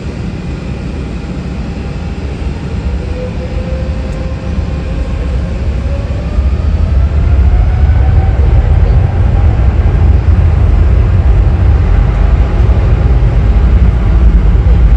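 Jet airliner's engines: a heavy rumble growing louder, with a whine that rises in pitch over several seconds before holding steady.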